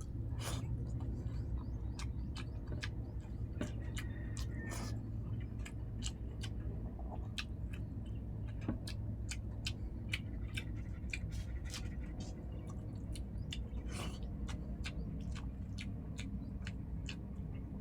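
Close-up mouth sounds of someone chewing jackfruit stew: a steady run of irregular wet clicks and lip smacks, over a low steady hum.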